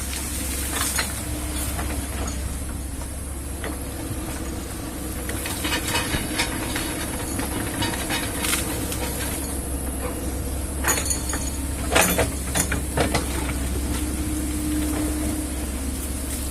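Kobelco excavator's diesel engine running steadily under load, with scattered sharp knocks and cracks, a cluster of them about eleven to thirteen seconds in.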